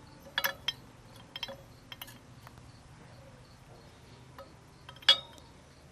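Glass light bulbs clinking together as they are handled and set in place: a few sharp, ringing clinks in the first two seconds and a louder one about five seconds in.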